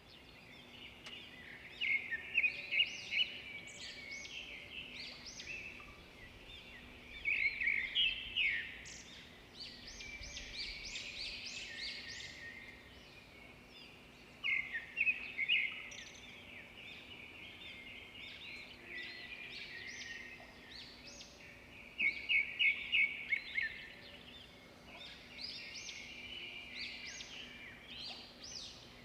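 Songbird chirping, in bursts of quick high notes that come every few seconds, over a faint steady hum.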